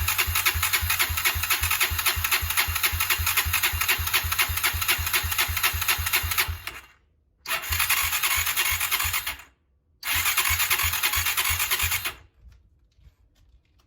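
Honda GB250's single-cylinder engine being cranked on its electric starter in three bursts, a long one and two short ones, with an even chugging rhythm that stops abruptly each time the starter is released; the engine does not fire.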